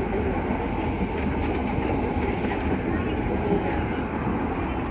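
Metro train rumbling steadily on its rails, with a faint clickety-clack of the wheels, heard at close range.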